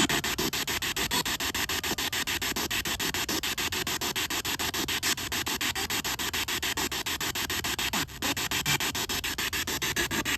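Ghost-hunting spirit box sweeping through radio stations: steady static chopped into rapid, even pulses several times a second, with a brief drop-out about eight seconds in.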